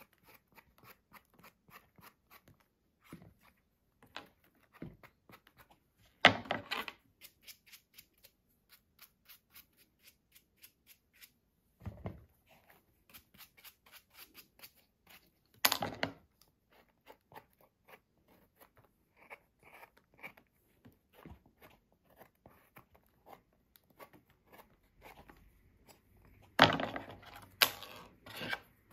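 Knife slicing mushrooms on a cutting board: a long run of light, quick taps, with a few louder knocks now and then and a burst of them near the end.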